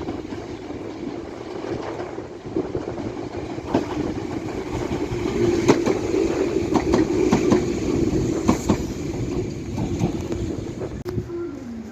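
Meitetsu electric train running through the station, its wheels clacking over rail joints under a steady motor hum. The sound swells toward the middle, and the motor's pitch falls near the end.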